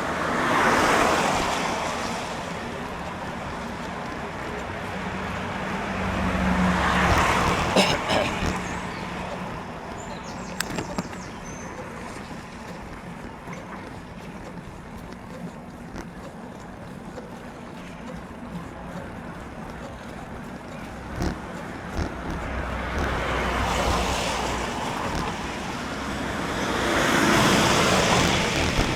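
Cars passing on a wet road, their tyres hissing. Four go by, each swelling up and fading away, and one carries a low engine hum about a quarter of the way in.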